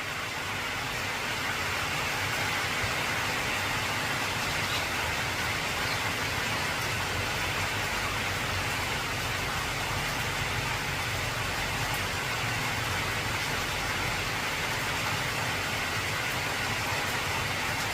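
Heavy rain falling on an old corrugated tin roof: a dense, steady hiss that fades in over the first couple of seconds.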